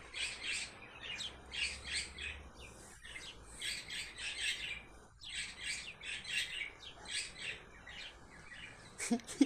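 Birds chirping: a steady run of short, high chirps, several a second.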